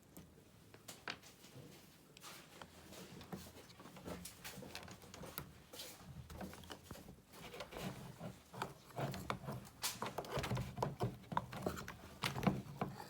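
Irregular light clicks and knocks, coming thicker and louder in the second half.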